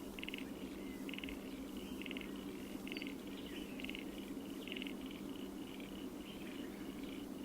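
Spotted pardalote calling: a series of short, buzzy trilled notes repeated about once a second, with fainter notes between them.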